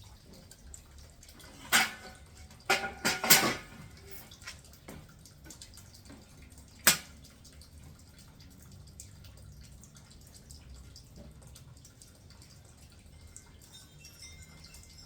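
Several sharp clacks with a brief ring: one, then a quick cluster of three or four, then a single one a few seconds later, over faint room tone.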